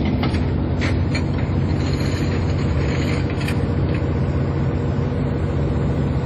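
Fishing boat's diesel engine running steadily, with a few light clicks or knocks in the first few seconds.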